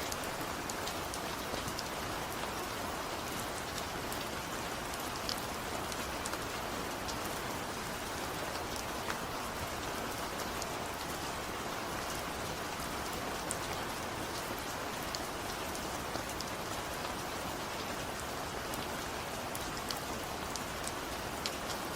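Steady rain falling, an even hiss with scattered individual drops ticking on a nearby surface.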